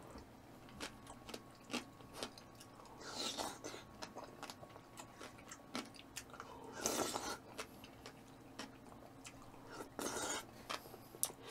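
Close-miked chewing of raw bluefin tuna sashimi: soft, wet mouth clicks and smacks throughout, with three louder, longer noisy bursts about three, seven and ten seconds in.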